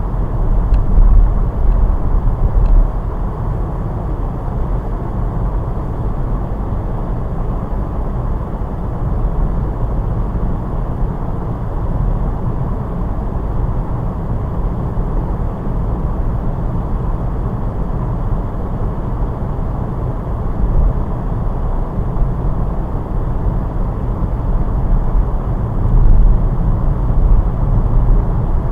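A car driving: a steady low rumble of road and engine noise with no distinct events. It swells briefly about a second in and again near the end.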